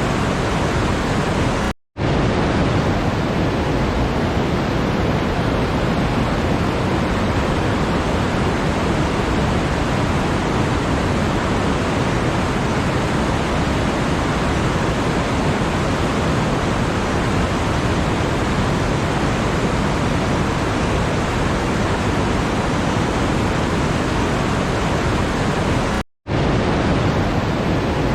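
Steady, even rushing noise with no change in pitch or rhythm. It cuts out to silence for an instant about two seconds in and again near the end.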